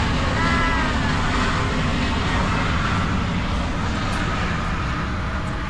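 Airplane engine noise: a steady, loud rumble and roar that holds level throughout.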